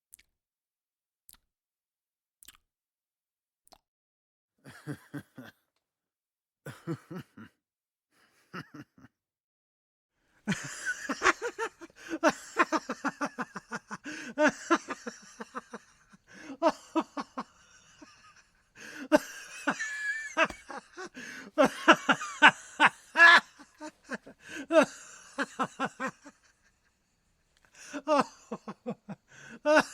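A person laughing in repeated bouts: short scattered bursts at first, then long stretches of rapid laughter with a couple of brief pauses.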